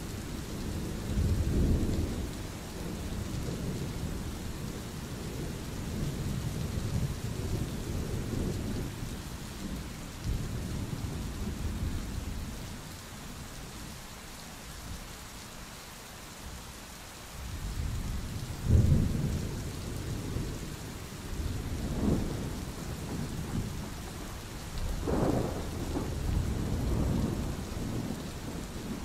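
Steady rain with thunder rumbling on and off. The rumbles ease off around the middle, and the loudest, sharpest clap comes about two-thirds of the way through, followed by several more rolls.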